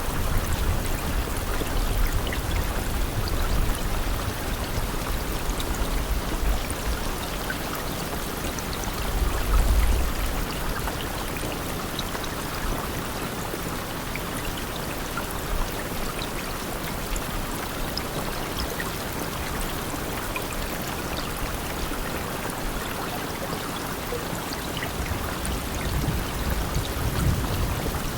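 Steady rain falling, an even hiss with scattered individual drop ticks. Low rumbling swells come and go, the strongest about ten seconds in.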